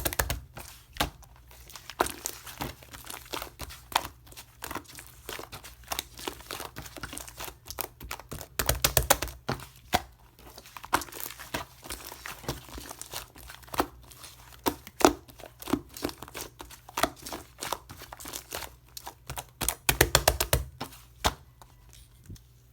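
Clear purple slime mixed with shaving foam being squeezed, stretched and pressed by hand, making irregular sticky clicks and pops. The clicks come in dense flurries near the start, about nine seconds in, and about twenty seconds in.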